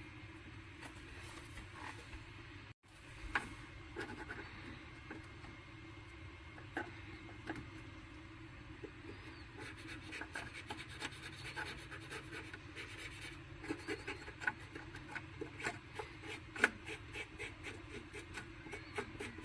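Faint rubbing and scratching from cleaning the playback heads and mechanism of a cassette deck, with many small clicks and ticks that get busier about halfway through.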